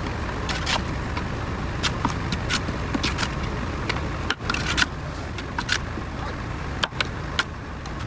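A heavy machine's engine running steadily, with repeated sharp clanks and knocks over it.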